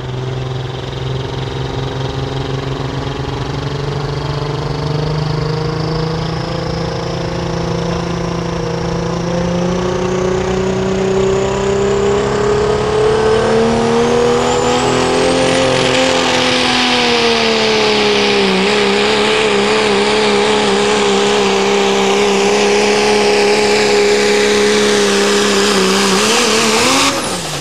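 Pro street diesel pickup truck pulling a sled at full throttle. The engine note climbs steadily for about fifteen seconds, with a high whistle rising above it, then holds high and steady until the throttle is cut suddenly near the end.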